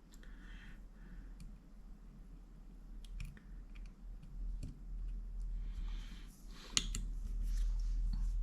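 A few scattered light clicks and taps at irregular intervals as power transistors from an inverter are handled and tested with meter probes, over a low steady hum.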